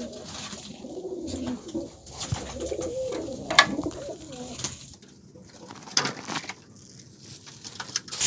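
Homing pigeons cooing in their loft, with a few sharp clicks, the loudest about three and a half seconds in; the cooing fades in the second half.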